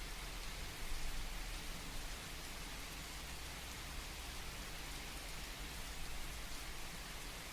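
Steady rain falling, an even hiss of many drops, a little louder about a second in.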